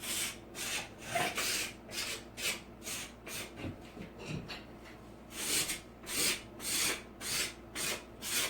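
Wooden stir stick rubbed in quick repeated strokes along a textured wall edge, scraping down the ridges of dried wall texture so the edge is not sharp. The strokes come about two a second, with a short pause a little past the middle.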